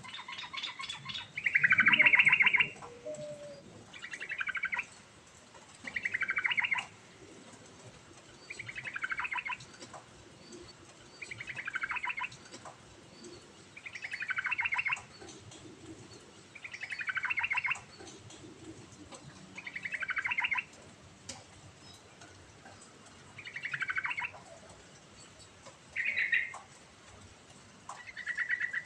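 Yellow-vented bulbul (trucukan) singing, about a dozen short bubbly phrases of about a second each, repeated every two to three seconds, each sliding down in pitch.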